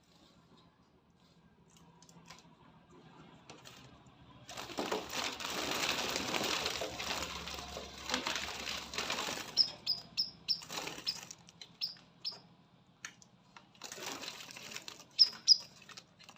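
A small sunbird fluttering its wings in two spells, a long one from about four seconds in and a shorter one near the end. Between and after them come a string of short, sharp, high chirps.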